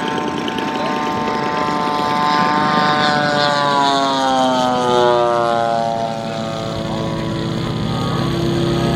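Moki radial engine of a large RC Corsair model in flight, its propeller drone dropping in pitch around the middle as the plane passes, then running steadily at the lower pitch.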